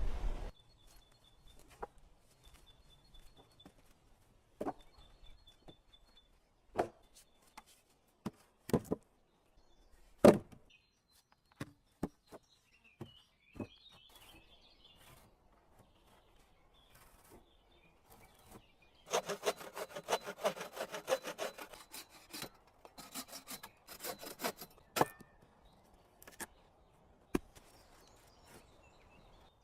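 Wood being worked by hand: scattered knocks and clatters, then a few seconds of quick rubbing or sawing strokes about two-thirds of the way through. A bird chirps repeatedly in the first few seconds.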